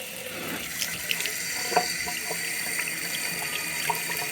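Water running from a waterfall-spout bathroom sink faucet into the basin, its flow swelling about half a second in, then running steadily with a few splashy ticks.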